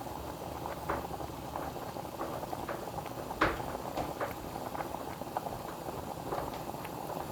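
Spoon stirring melting soy candle wax in a pot, with scattered light clicks of the spoon against the pot and one sharper knock about three and a half seconds in, over a steady bubbling hiss from the heating pot.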